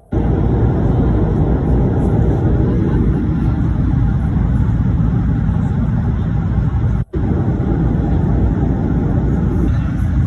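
Steady, loud cabin rumble of an Airbus A220-300 airliner, the engine and airflow noise heard from inside the cabin. It cuts out for a split second about seven seconds in, and near the end the higher part of the rumble falls away.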